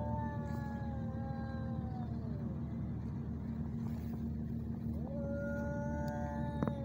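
Two tomcats yowling at each other in a standoff: one long, wavering, drawn-out yowl that sags in pitch as it ends, then a second yowl starting about five seconds in. A steady low hum runs underneath.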